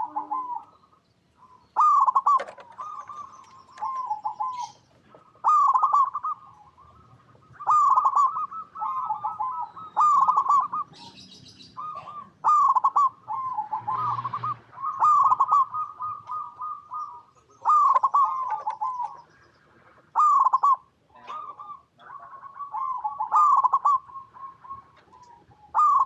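Zebra dove (perkutut) singing its rolling cooing song over and over, a new phrase starting about every two seconds.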